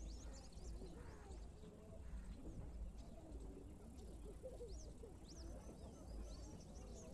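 Birds chirping faintly: scattered quick, high chirps, then a fast run of chirps starting near the end, over a low steady rumble.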